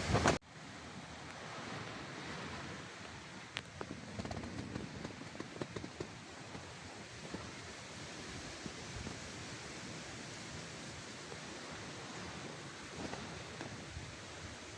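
Steady rushing wind, with a few light rustles and small clicks a few seconds in. A louder stretch of the same noise cuts off abruptly about half a second in.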